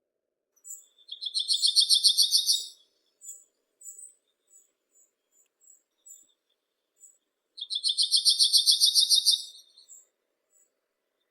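A songbird singing two rapid, high trilled songs about six seconds apart, each lasting roughly two seconds, with short high chips in between.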